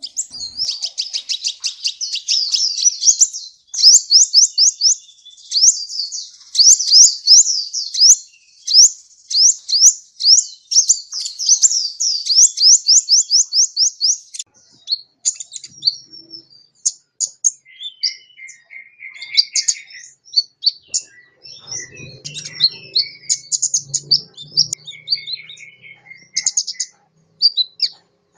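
Sunbird (kept as a 'kolibri' songbird) singing. It gives a fast, even run of high sweeping notes at about four a second for the first half, then breaks into looser, varied twittering and chirps.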